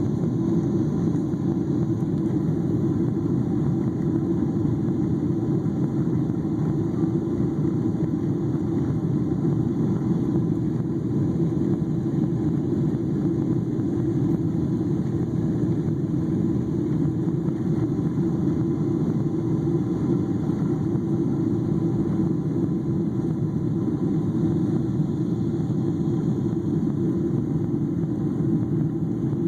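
Steady low rumble of an airliner's jet engines and airflow heard inside the passenger cabin during takeoff, even and unchanging throughout.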